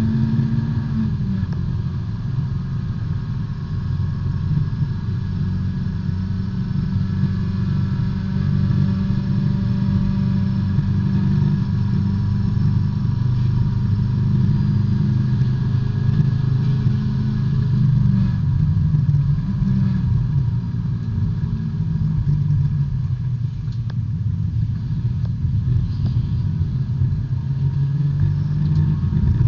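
Small four-cylinder B-Spec race car engine running hard, heard from inside the car. The note holds fairly steady with a few shifts in pitch: one about a second in and more past the middle.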